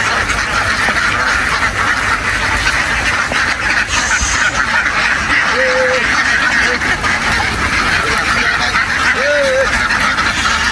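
A very large flock of domestic ducks quacking all at once in a dense, steady din, with a few single calls standing out about halfway and near the end.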